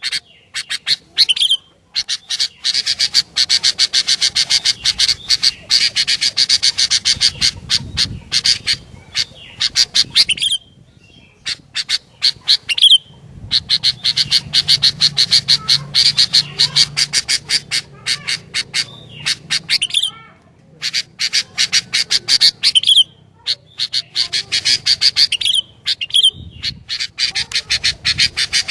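Sooty-headed bulbul (kutilang) calling: loud, rapid runs of sharp chattering notes, each run lasting several seconds with short pauses between, and a few brief sliding whistled notes in between.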